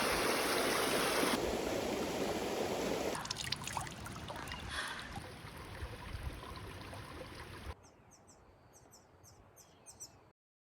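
Mountain stream water rushing over rocks, heard in short clips that cut abruptly and grow quieter. Near the end the water drops out to near silence, with a few faint high bird chirps.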